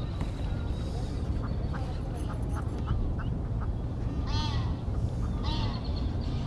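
Waterfowl calling: two short calls about a second apart in the second half, over a steady low rumble.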